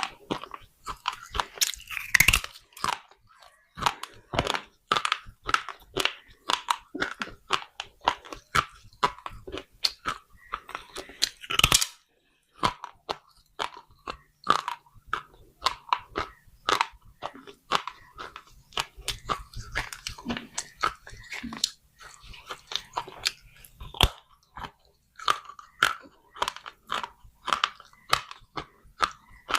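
Close-up crunching of baked clay pot being bitten and chewed: a dense run of irregular cracks, with a louder snap about 2 seconds in and another about 12 seconds in.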